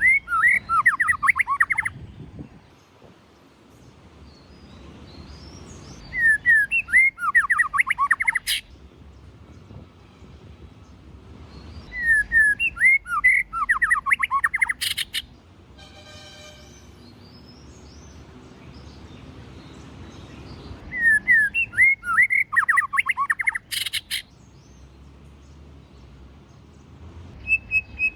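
White-rumped shama singing: four bursts of rapid, varied whistled notes, each about two to three seconds long, with a fifth starting at the end. Three of the phrases end in a sharp click.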